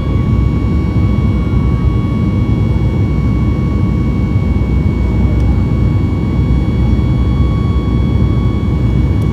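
Cabin noise of a Boeing 737 MAX 8 in flight: the steady low rumble of its CFM LEAP-1B turbofan engines and the airflow, with a steady high whine of engine tones above it.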